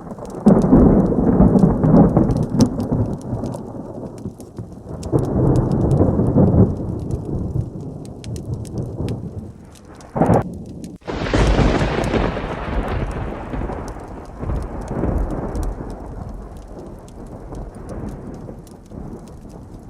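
Thunderstorm with heavy rain: several low rolls of thunder, then a sharp, loud thunderclap about eleven seconds in that rumbles away slowly, over a steady patter of rain with fine ticks throughout.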